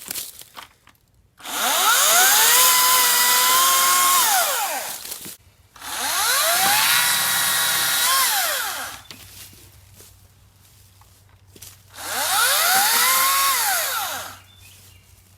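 Hart 40-volt cordless electric chainsaw run three times with no load: each time the motor whines up to speed, holds a steady pitch for about three seconds, then winds down as the trigger is let go.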